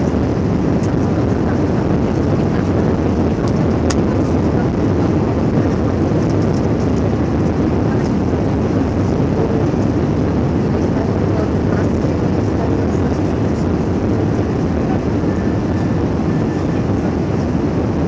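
Airbus A320 cabin noise in flight: a steady, even rush of engine and airflow noise heard from inside the cabin. There is a faint click about four seconds in.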